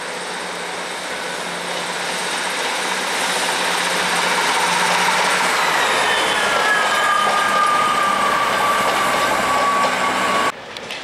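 Northern Class 158 diesel multiple unit passing slowly through station pointwork, its running noise building as it nears. About halfway through, a high whine slides down in pitch and then holds steady until the sound cuts off abruptly near the end.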